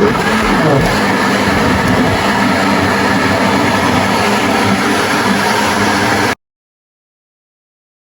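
Loud, steady mechanical running noise with a brief dip and rise in pitch near the start. It cuts off abruptly about six seconds in, leaving dead silence.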